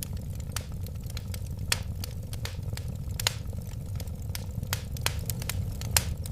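Wood fire burning in a fireplace: a steady low rumble of flames with irregular sharp crackles and pops, a few of them louder, the loudest near the end.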